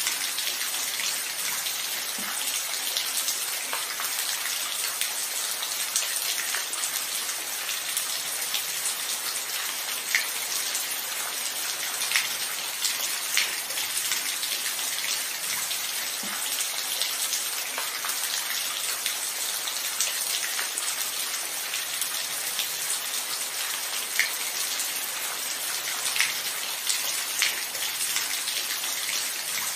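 Steady rain falling, an even hiss with scattered sharper drop ticks and no thunder.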